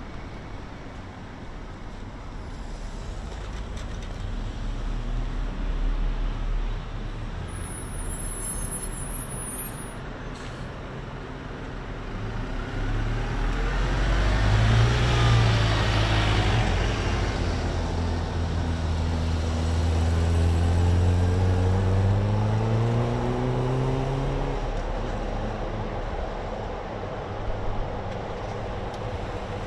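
Road traffic: a motor vehicle passes close by about halfway through, then an engine's pitch rises steadily for several seconds as it accelerates away, over a constant low traffic rumble.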